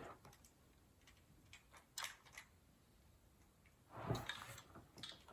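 Near silence with a few faint clicks and taps of small plastic LEGO pieces being handled: a couple about two seconds in and a short cluster around four seconds in.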